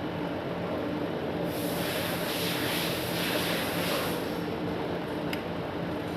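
Electric exhaust fan running with a steady hum. A louder hiss rises about a second and a half in and fades out about three seconds later.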